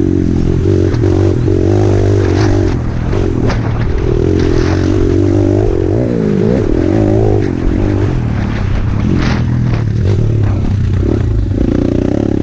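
Small single-cylinder dirt bike engine running under throttle, its revs rising and falling as it is ridden, with a sharp drop and climb in pitch about halfway through.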